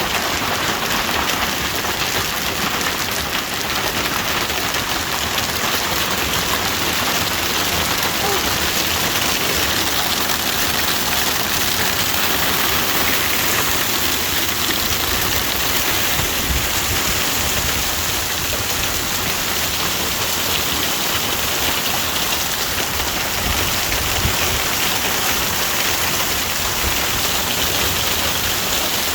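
Severe hailstorm: hailstones and rain pelting down steadily in a dense hiss of countless small impacts.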